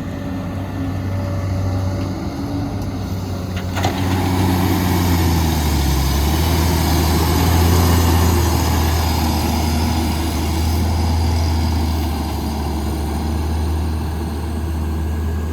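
Diesel engine of a heavy construction machine running steadily. A sharp knock comes about four seconds in, after which the engine grows louder and its note dips and shifts as it works, with a faint high whine over it.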